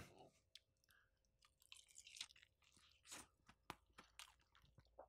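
Faint chewing close to the microphone: a person eating, with scattered soft mouth clicks and smacks at an uneven pace.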